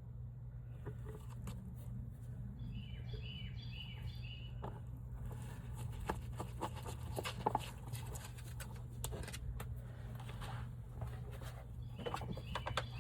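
Small scattered clicks and plastic handling noises from pouring the limited-slip additive bottle into a bag of gear oil, over a steady low hum. Two short runs of quick, high, stepped chirps are heard, a few seconds in and again near the end.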